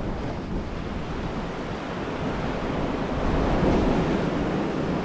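Ocean waves washing against rocks along the shore, a steady noisy wash that swells about three seconds in, with wind buffeting the microphone.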